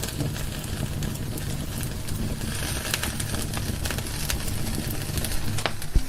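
Wood fire burning in a fireplace, crackling with frequent sharp pops over a steady low rumble of the flames.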